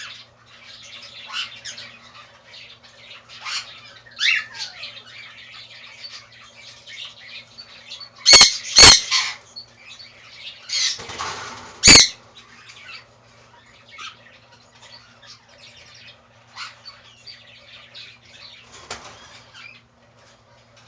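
A 36-day-old baby cockatiel calling repeatedly with short, high chirps, with three loud squawks around the middle and a brief rushing burst of noise just before the last of them.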